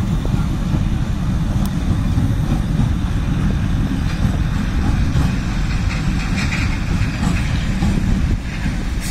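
Eastern Railway EMU train rolling slowly across a concrete bridge: a steady low rumble with no clear breaks.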